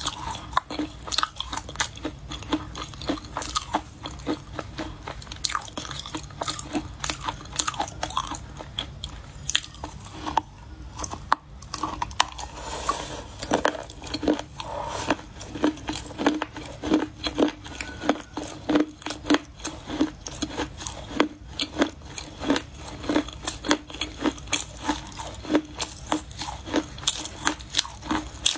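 Close-miked biting and chewing of dry, crunchy china clay: many sharp crackling crunches, settling in the second half into a steady chewing rhythm of about two crunches a second.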